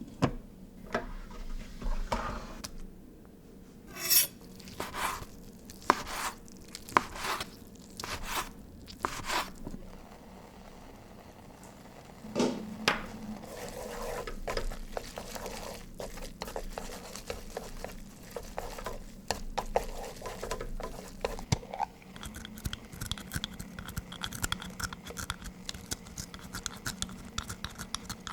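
Cooking sounds at a pot: utensils knocking, clinking and scraping against cookware and dishes. About two-thirds of the way through, a dense, steady fine crackling sets in.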